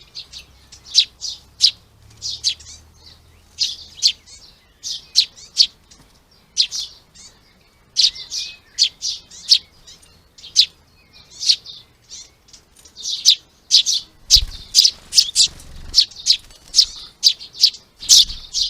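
Small garden songbirds chirping, a dense run of short sharp chirps, several a second, with brief gaps.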